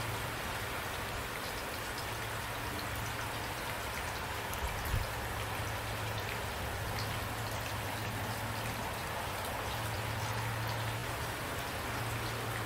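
Steady rainfall, a continuous hiss with many small raindrops ticking through it, over a steady low hum. One slightly louder drop or knock stands out about five seconds in.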